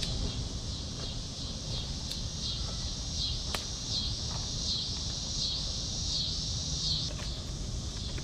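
Chorus of summer insects: a steady high shrill that swells and fades in a regular rhythm, about three pulses every two seconds, over a low background rumble with a few faint clicks.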